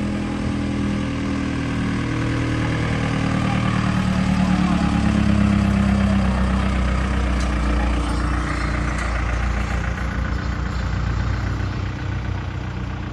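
Car engine idling, growing louder toward the middle and then slowly fading.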